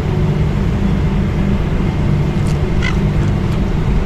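Steady low outdoor rumble with a single short, faint seagull call about three seconds in.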